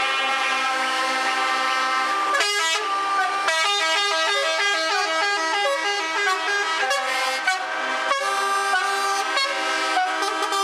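Truck air horns sounding: a held chord of horn notes for about two seconds, then a rapid run of changing notes, several a second, like a multi-tone horn playing a tune.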